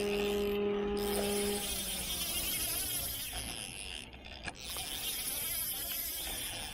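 Fishing reel drag giving line to a pulling fish: a steady buzzing whine that drops in pitch and fades about a second and a half in as the spool slows, followed by a few light clicks.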